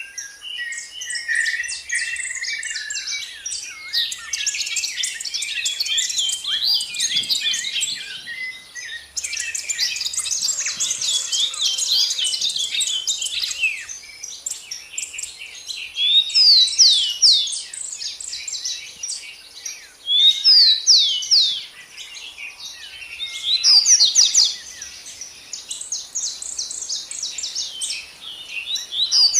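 Several songbirds chirping and trilling together in a busy chorus of rapid high notes, with louder phrases standing out now and then.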